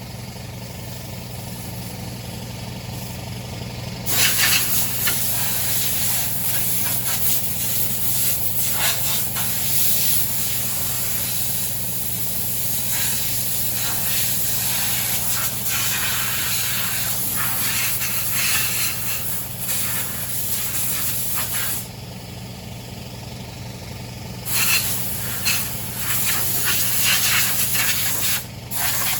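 Pressure washer spraying, most likely at the underside of a lawnmower deck to clean off wet grass: a steady motor hum under a loud, rough hiss of spray that stops for a few seconds at the start and again for a couple of seconds near the end while the motor keeps running.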